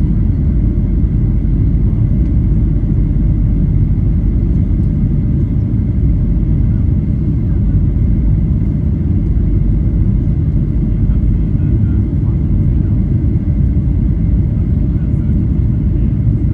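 Steady low rumble of cabin noise inside a Boeing 737 airliner in flight on approach, with a faint steady high tone.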